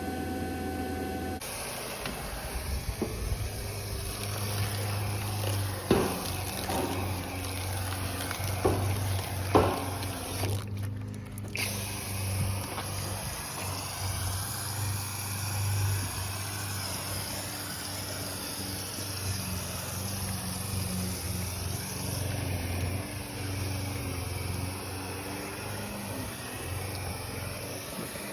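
A machine running with a steady low hum and an airy rushing noise, with a few short knocks about six and ten seconds in.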